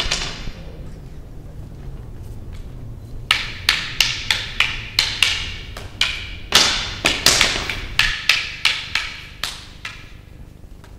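Rattan escrima sticks clacking against each other in a partner drill: a few sharp knocks at the very start, a pause, then a run of quick wooden clacks, about three a second, that dies away near the end.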